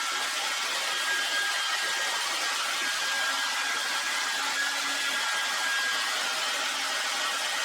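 Heat gun blowing steadily, a constant fan hiss with a faint motor whine, used to warm plastic decals so they can be peeled off.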